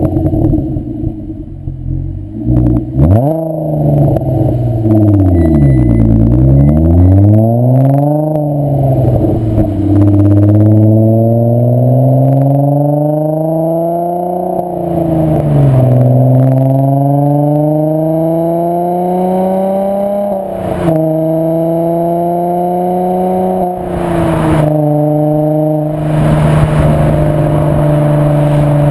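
VW 2.8 VR6 24V engine heard through a Milltek non-resonated exhaust while driving. The revs fall and rise twice early on, then the engine pulls up through the gears, the pitch climbing and dropping sharply at three shifts. Near the end it settles to a steady cruise.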